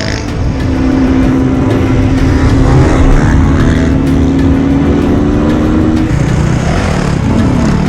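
Dirt bike engine running as the bike is ridden. Its note holds fairly steady, then drops and changes about six seconds in, over a heavy low rumble.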